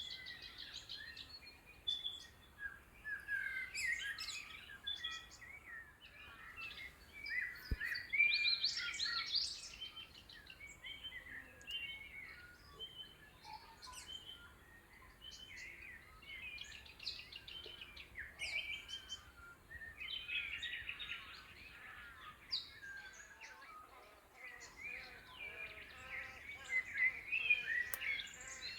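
Dawn chorus of many wild birds in Australian woodland, with overlapping chirps, whistles and warbling calls from several birds at once, rising and falling in busy spells.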